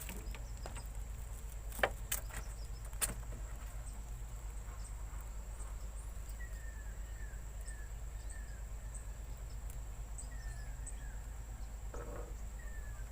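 Outdoor ambience of insects buzzing steadily, with a few sharp clicks about two to three seconds in and runs of short, falling chirps in the middle and near the end.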